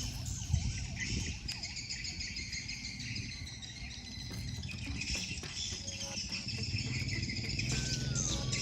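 Steady high chorus of insects chirring, with birds chirping through it.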